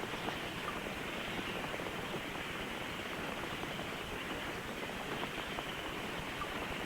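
A colony of long-fingered bats stirring in a cave: a steady rustling hiss with a few faint, brief squeaks.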